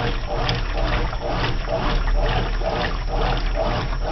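Brastemp washing machine agitating a load, water sloshing back and forth in the drum in an even swishing rhythm, about two swishes a second.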